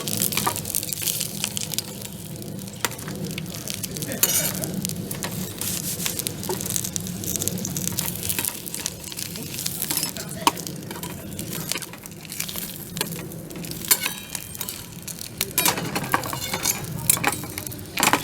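Food sizzling in a frying pan, with scattered crackles and the occasional clink of a utensil against the pan.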